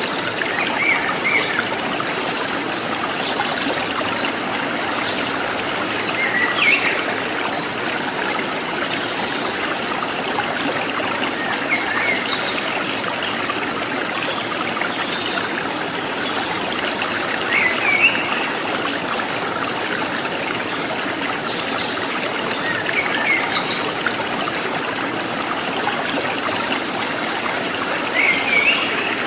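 Forest stream trickling and babbling steadily, with short wild bird chirps every few seconds.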